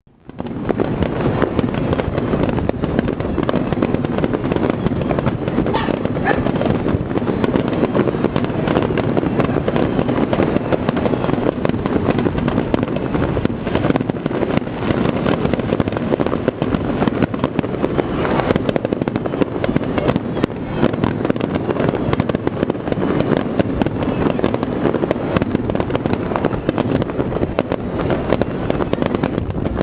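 Fireworks finale: many aerial shells bursting in rapid succession, merging into a dense, continuous barrage of booms and crackle.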